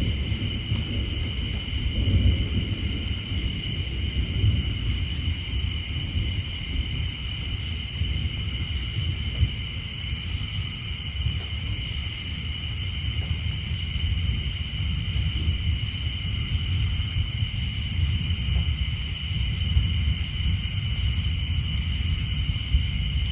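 Rain drumming on a tin roof with a low rumble of thunder, swelling briefly about two seconds in. Over it runs a steady night chorus of tree frogs and insects, with a high trill that swells and fades about every two and a half seconds.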